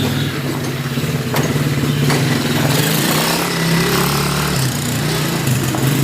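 Quad bike (ATV) engine running close by at fairly steady low revs, its pitch shifting slightly partway through.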